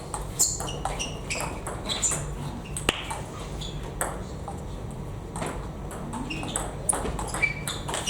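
Table tennis balls clicking irregularly off bats and tables in a playing hall, mixed with short high squeaks, over a steady low hum.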